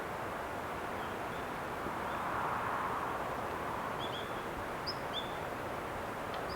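Daurian redstart giving short, thin, high call notes, singly and in quick pairs, over a steady background noise that swells a little two to three seconds in.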